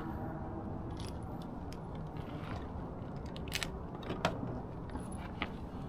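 A few light metallic clicks and clinks of small parts being handled, spread out over a steady low background rumble.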